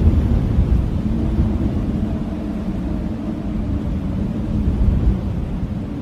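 Blizzard wind howling in a low, wavering tone over a deep, steady rumble, swelling and easing slightly in gusts.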